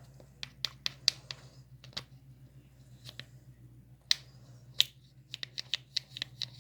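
Butter slime being squished and kneaded by hand, giving off irregular sharp clicks and pops. The clicks come in a dense run near the end.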